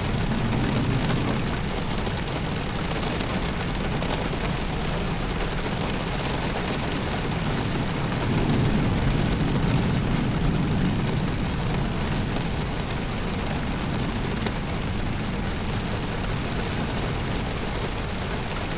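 Heavy rain falling, a steady hiss with a deeper rumble underneath that swells for a few seconds partway through.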